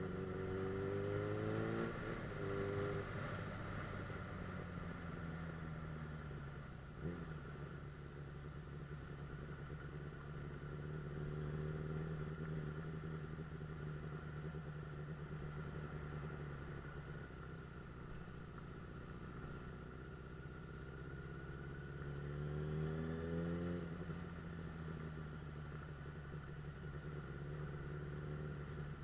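Suzuki GSF 600 Bandit S inline-four engine running on the road. Its pitch climbs under acceleration and falls back at a gear change about two seconds in and again near 24 seconds. There is a single sharp click around seven seconds in.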